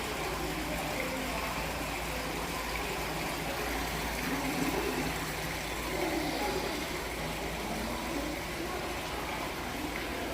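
Steady rush of running water at an even level, with faint voices in the background.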